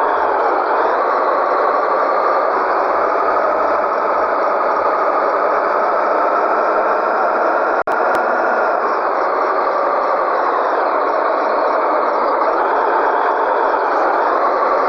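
Scania 113G truck's diesel engine running steadily, its pitch slowly rising and falling a few times as the revs change, with a brief cut-out about eight seconds in.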